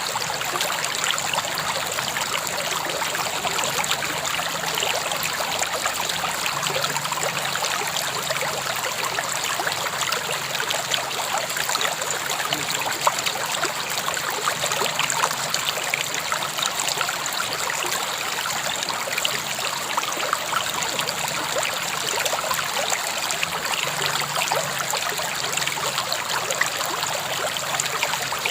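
River water flowing and splashing steadily over stones, with fine trickling detail.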